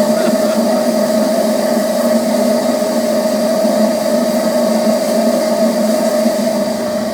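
Southern S15 4-6-0 steam locomotive letting off steam: a loud, steady rush with a low note and a higher note held under it, easing off near the end.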